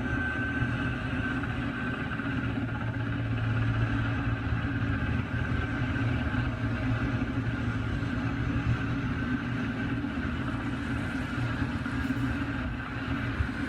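Helicopter running steadily: a continuous low engine and rotor drone with a thin, high, steady whine over it.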